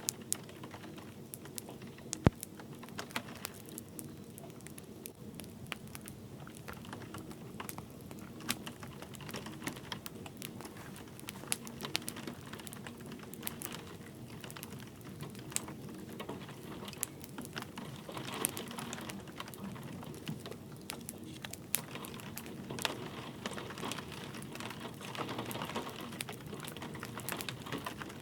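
Wood fire crackling with frequent irregular sharp pops, one much louder pop about two seconds in, over a steady soft hiss of light rain.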